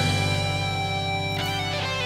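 Hard rock music: electric guitar notes held and ringing over a sustained low bass note, easing slightly in level.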